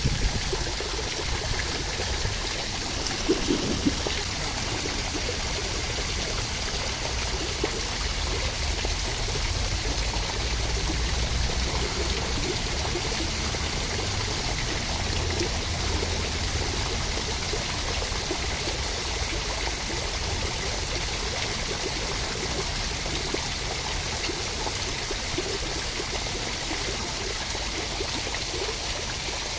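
Steady, even rush of running water with a low rumble beneath it, and a few soft ticks in the first few seconds.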